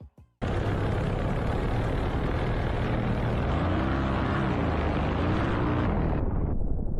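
Engine of an ultralight trike flying close past, under heavy rushing wind noise, with the engine pitch rising and falling in the middle. The hiss drops away abruptly near the end.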